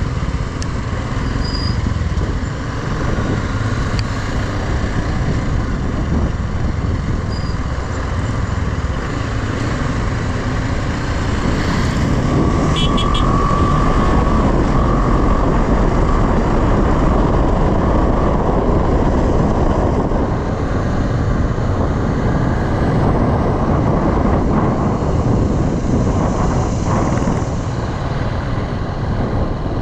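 A motorcycle being ridden on a road: its engine runs steadily under a dense, even rush of wind and road noise.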